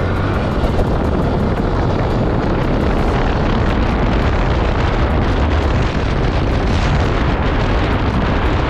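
Steady rush of wind buffeting the microphone on a moving motorcycle, with road and engine noise blended underneath.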